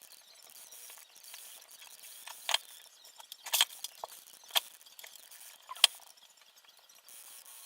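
Irregular small clicks and taps of parts and hand tools being handled during model assembly. Four sharper clicks fall in the middle few seconds.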